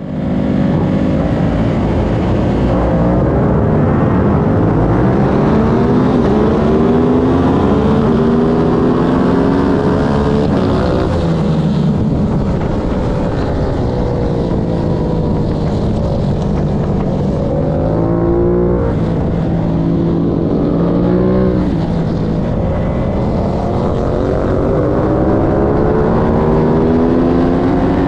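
Aprilia racing motorcycle engine at race pace, its revs climbing through each gear and dropping sharply at each shift, with quick blips up and down in places, over steady wind and road noise.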